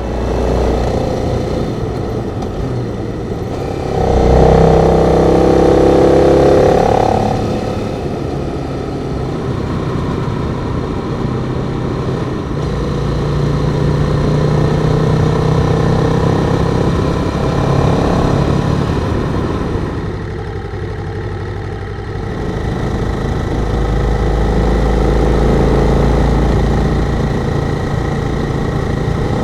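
Adventure motorcycle engine running on the road, its note rising and falling as the bike changes speed, loudest a few seconds in.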